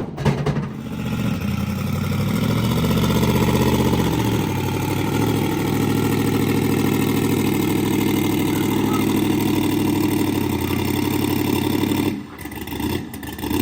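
A vehicle engine running with a sharp knock at the start. Its pitch rises over the first couple of seconds, then holds steady before it cuts off abruptly about twelve seconds in.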